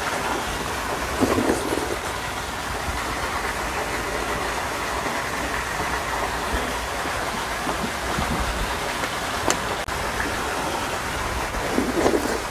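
Steady hiss of falling rain, with a person slurping and eating food off a spoon about a second in and again near the end.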